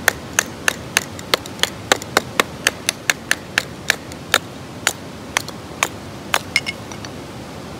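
Repeated sharp wooden knocks, about three a second at first, slowing and stopping near the end: a blade being struck through a stick of firewood to split it into thin kindling.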